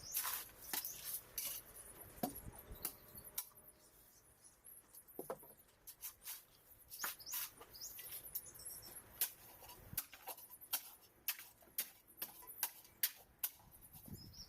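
Irregular light clicks and scraping sounds, many short ones scattered throughout, with a quieter stretch around the middle.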